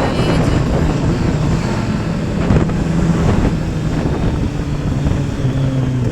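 Motorcycle engine running steadily under way, with wind buffeting the action camera's microphone. The engine note drops slightly near the end.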